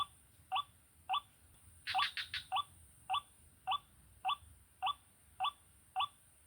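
Short, rising call notes of a white-breasted waterhen (ruak-ruak) repeated at an even pace of nearly two a second, with a brief cluster of sharper notes about two seconds in.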